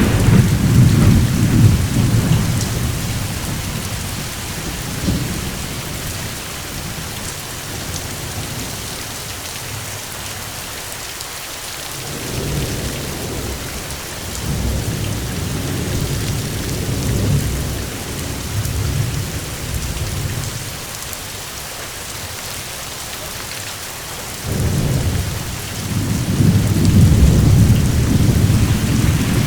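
Steady heavy rain with rolling thunder. The rumbles swell and fade several times, strongest in the first couple of seconds and again from about halfway and in the last five seconds.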